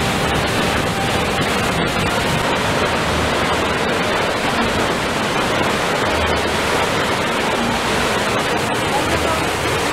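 Steady rushing of stream water, an even noise that holds at one level throughout.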